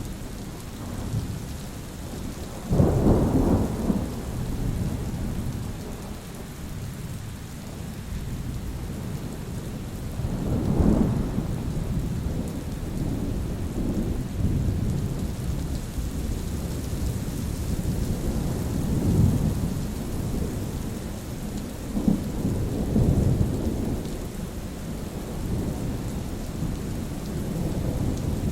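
Steady rain with rolling thunder. A sudden loud thunderclap comes about three seconds in, and further rumbles of thunder follow several times.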